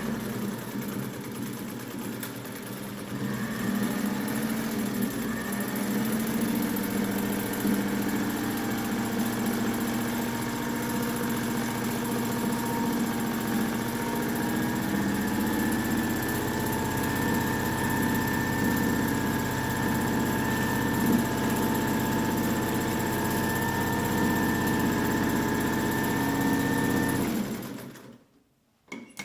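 Singer 99K sewing machine running and stitching at a short stitch length, a steady fast clatter with a motor whine. It picks up speed about three seconds in and stops abruptly near the end.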